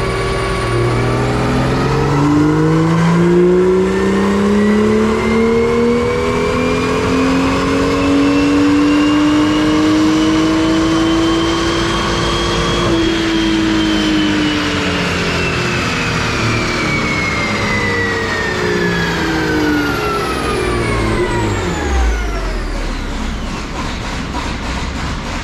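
BMW M2's 3.0-litre turbocharged inline-six under full throttle on a chassis dyno: it holds a steady speed, then climbs smoothly in pitch for about twelve seconds in one gear toward redline. The throttle then closes abruptly and the engine and dyno rollers wind down over about ten seconds, a high whine falling with them, to a low rumble near the end.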